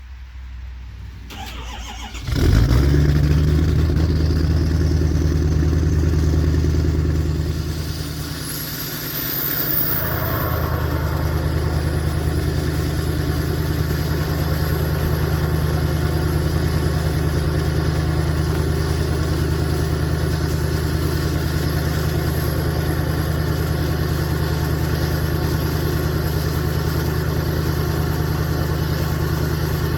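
2012 Ford F-350's 6.7 Power Stroke V8 turbodiesel cold-starting at -17 degrees: the engine catches suddenly about two seconds in and runs loud. It dips about eight seconds in, then settles into a steady idle with a high whine that rises and falls and then holds steady.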